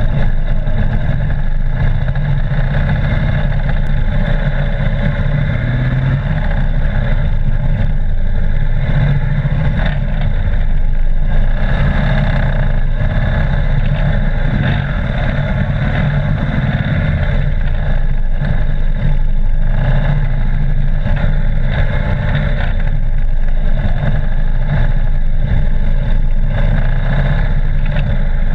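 Police motorcycle engine running close to the microphone at low riding speed, its note rising and easing with the throttle as the rider manoeuvres.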